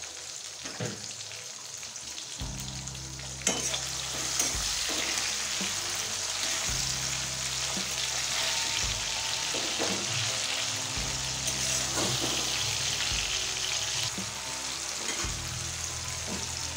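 Sliced onions and tomato sizzling in hot oil in a kadai, with a spatula stirring and scraping now and then. The sizzle grows louder about three and a half seconds in.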